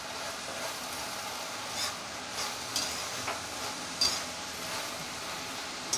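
Crushed shallots, garlic and ginger sizzling in hot coconut oil in an iron kadai while being stirred, with a few short scrapes and taps against the pan.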